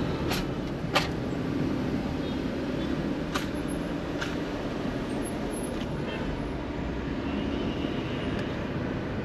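Steady low hum of a car idling in queued traffic, heard from inside the cabin, with a few sharp clicks in the first half.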